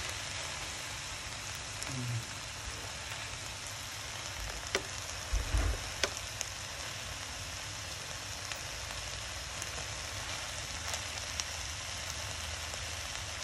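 Sliced lamb and red onion sizzling on a hot barbecue grill plate: a steady frying hiss, with a few sharp clicks and knocks about five to six seconds in as a wooden spatula turns the food against the plate.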